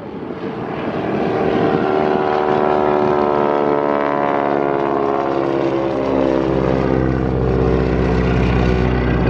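Boeing Stearman biplane's radial engine and propeller flying past. The engine note falls in pitch as it passes, and a deep rumble builds toward the end.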